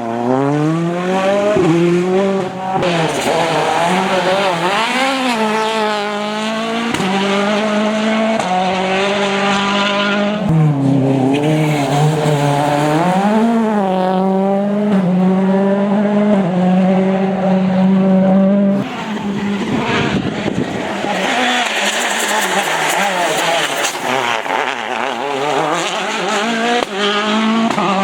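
Rally car engines revving hard through a stage, their pitch climbing and then dropping in steps with each gear change, and swinging up and down through lifts and bends.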